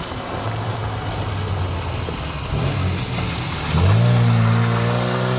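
Old Lada saloon's four-cylinder petrol engine running as the car comes closer, then revving up sharply about four seconds in and held at a steady high note.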